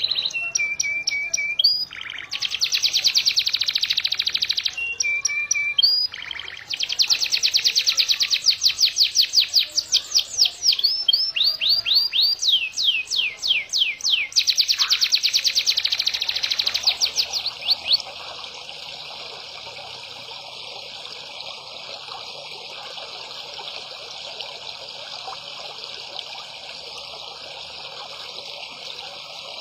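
A caged songbird sings rapid volleys of sharp, sweeping chirps, the fast 'tembakan' bursts used in Indonesian bird-song master recordings, in loud runs separated by short pauses. About 18 seconds in the singing stops and a steady hiss like trickling water carries on.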